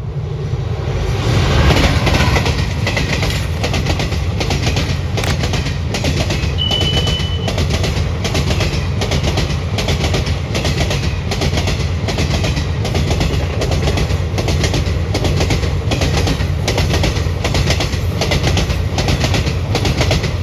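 Indian Railways train passing close at speed, its wheels clattering over rail joints in an even rhythm of about two clacks a second, over a steady low rumble.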